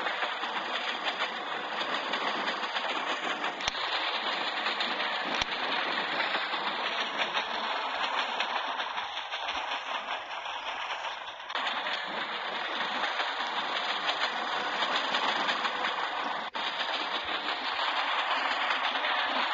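Steady running noise of a moving train, with the rumble and rattle of wheels and coaches on the track, broken by a couple of faint clicks.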